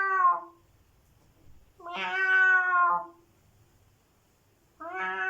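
Domestic cat meowing three times: a meow that ends just after the start, a longer one about two seconds in, and another beginning near the end.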